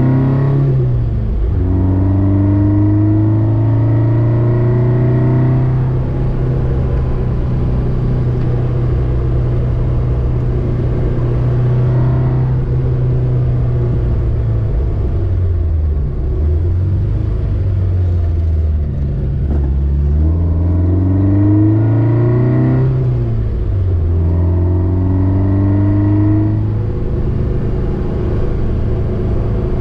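Car engine heard from inside the cabin, pulling up through the revs and easing back several times as the car speeds up and slows on a narrow road, with a steady road rumble underneath.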